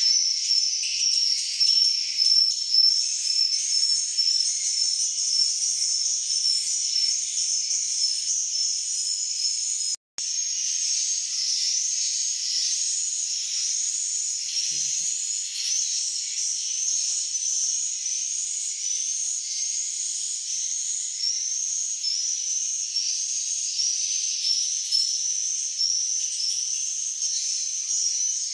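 Swiftlets' high, rapid chirping calls, many overlapping in a dense steady chorus, with a brief complete dropout about ten seconds in.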